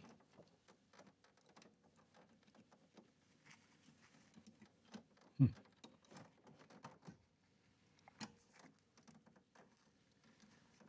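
Scattered small clicks and taps of hand work with tools and parts, with one louder low thump about five and a half seconds in.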